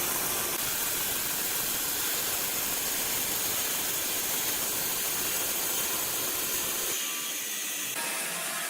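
Sawmill machinery running with a steady hissing noise; the deep part of the sound drops out abruptly about seven seconds in, and the sound changes again a second later.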